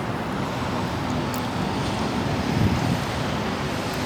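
Steady vehicle and road noise, an even hiss with a faint low hum and a slight swell about two and a half seconds in.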